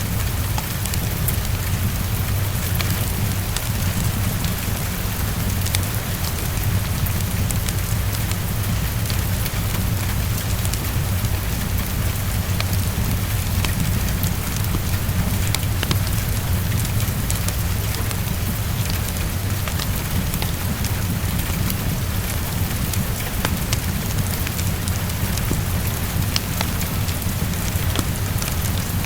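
Heavy rain falling steadily against a window, with a constant low rumble underneath and a wood fire crackling in scattered sharp clicks.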